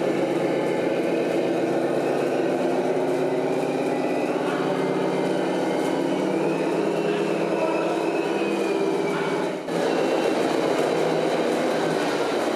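Scale RC model trucks running, a steady mechanical drone with a faint high whine that rises and falls midway and a brief drop about ten seconds in.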